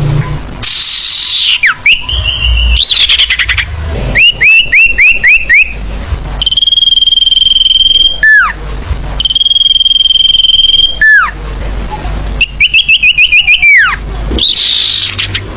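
Sirfu bird song played as a lure call: quick runs of short upslurred chirps alternate with two long, steady high whistles that each end in a sharp downward slur, plus a few higher falling notes.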